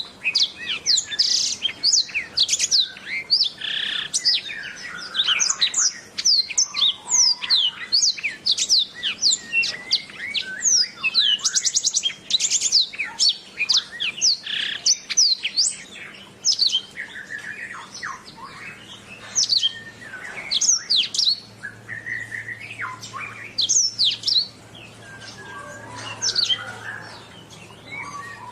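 Domestic canary singing a long, continuous song of quick downward-sweeping whistled notes and fast trills. The song is densest in the first half and thins somewhat later on.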